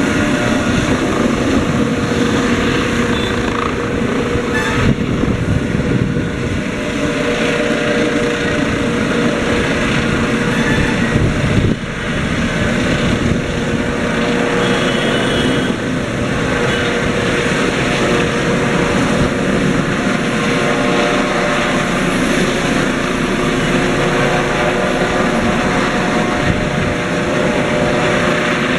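Helicopter running loudly and steadily at close range, its turbine whine carried over the rotor and engine noise.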